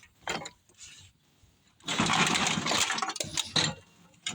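Scraping and clanking of metal on metal as a mower engine is shifted on a steel truck tailgate: a brief scrape, then about two seconds of rough scraping with sharp clinks.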